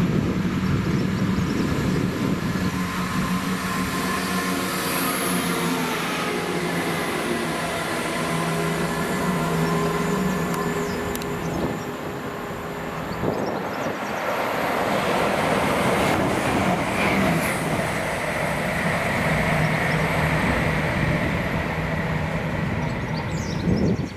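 Diesel multiple-unit trains running through a station, with the steady drone of their underfloor diesel engines mixed with wheel and rail noise.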